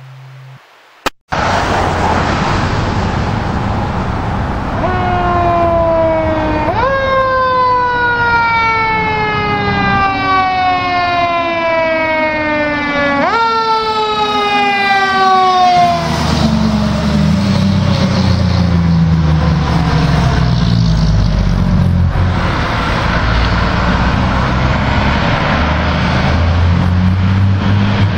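A fire engine's siren wails over the loud noise of the truck's engine. Twice the pitch jumps up quickly and then slides slowly down. After that the siren fades out, leaving the engine's low rumble and road noise.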